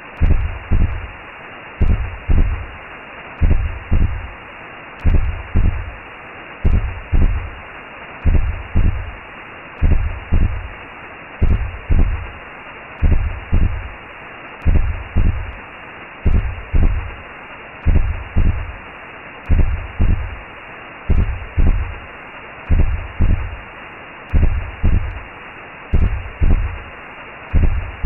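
Recreated womb sound: a steady whooshing hiss with a slow, low heartbeat, each beat a double thump, repeating about every second and a half.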